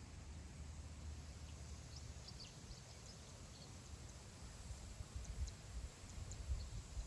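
Wind over open grassland, heard as a faint low rumble that picks up in gusts near the end. Scattered faint, short, high chirps of wild birds sit over it.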